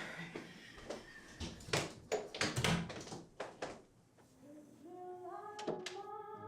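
Several short knocks and clicks of movement in a small room, then music of held notes fades in about halfway through, building upward note by note.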